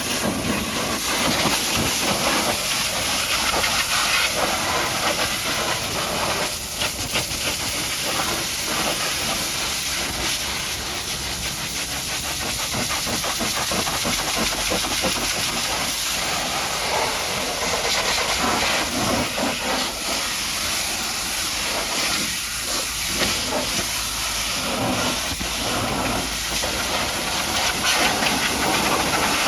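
High-pressure washer jet spraying water against a mud-caked truck: a steady, loud hiss that shifts in tone now and then.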